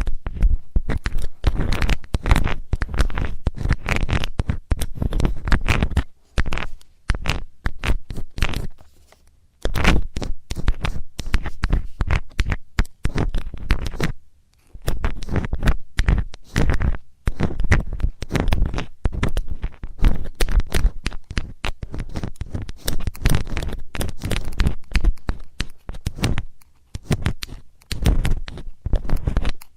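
Metal ear-cleaning tool scraping and tapping rapidly against a microphone's ear, dense scratchy strokes broken by a few short pauses.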